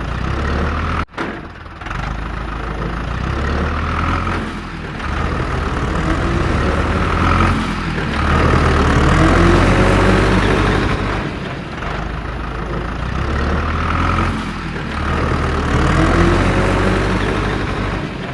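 Heavy engine running with a low rumble that swells and dips in a repeating cycle every three to four seconds.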